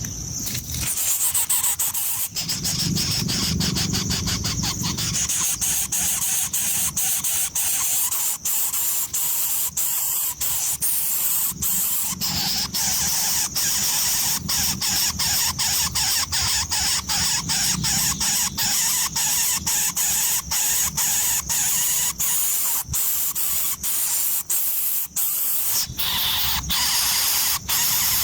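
Nestlings begging in the nest, a continuous high-pitched squealing chorus.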